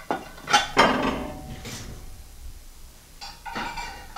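Hard objects knocking and clinking together, like kitchenware being handled: several sharp knocks in the first second and a half, one leaving a short ring, then a few lighter clinks near the end.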